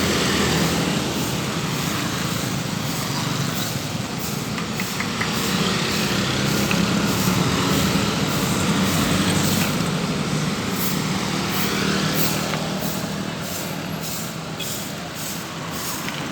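A heavy engine runs steadily, with brooms repeatedly scraping sand and gravel across the road surface.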